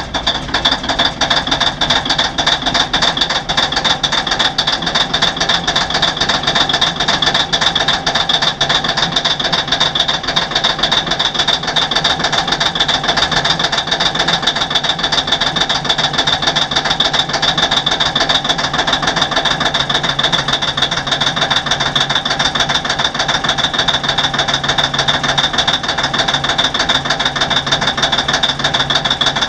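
Komatsu WA600 wheel loader's big diesel engine being cranked on its starter in the cold, turning over steadily and fast without catching, with a steady high whine over it.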